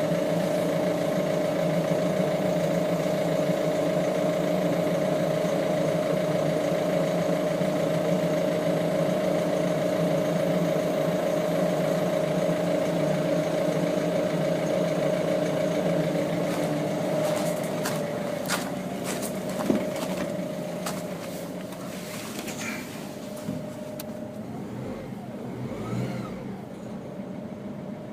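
Ford Focus engine running with a strange, steady whining tone over the engine noise. About two-thirds of the way in the sound weakens, with several sharp clicks and a knock, and the whine dies out a few seconds before the end.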